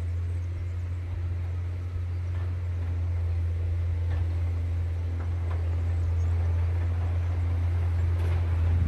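John Deere 670 GP motor grader's diesel engine running with a steady low drone, growing slightly louder.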